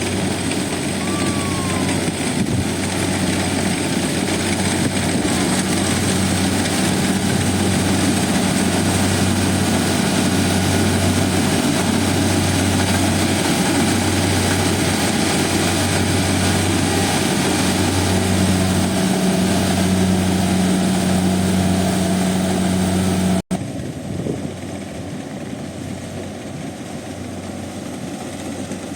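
Kubota DC70 combine harvester's diesel engine running steadily under load with a low hum. About three-quarters of the way through the sound cuts off sharply and carries on at a lower level.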